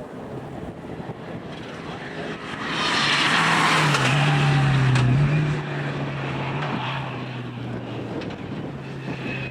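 A four-wheel-drive rally car passing at speed on a stage. Its engine swells in about two and a half seconds in, is loudest for a couple of seconds with the pitch falling as it goes by, then fades away.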